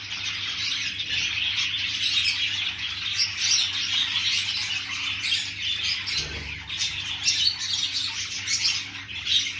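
Parrot chattering without pause, a dense stream of high-pitched chirps and squawks, with a soft low thump about six seconds in.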